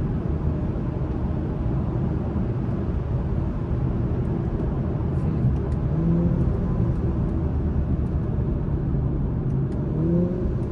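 Steady road and engine rumble inside the cabin of a 2021 Acura TLX Type S being driven with the windows up. A faint engine note comes through about six seconds in, and again rising briefly near the end.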